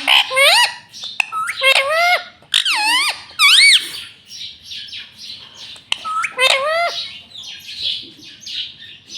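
Pet green parrot squawking: a run of loud calls, each sweeping up and then down in pitch, in the first few seconds and again a little after the middle, then softer chattering near the end.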